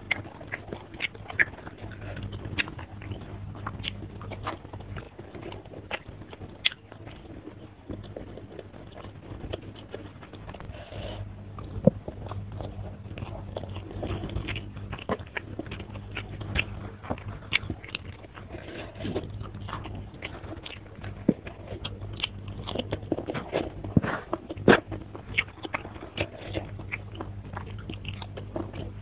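Close-miked mouth sounds of a person eating by hand: wet chewing and lip smacks with frequent short crunches, a few sharper than the rest about twelve seconds in and again about five seconds before the end. A steady low hum runs underneath.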